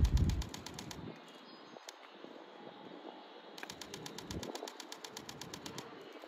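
A JR 205-series electric train approaching from a distance, faint and low, after a short low thump right at the start. Over it runs a rapid high ticking, about eight ticks a second, once at the start and again from about three and a half seconds in.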